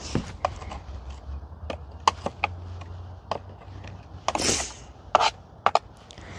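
Hands handling the opened plastic housing of a Bissell Powerforce Helix upright vacuum while debris is picked out of it: scattered clicks and knocks, a brief scrape about four seconds in, then a few sharp clicks, over a faint low hum.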